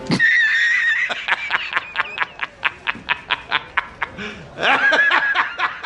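High-pitched, cartoonish snickering laugh: a squeal, then a quick run of short 'heh-heh' pulses about five a second, and another squeal near the end.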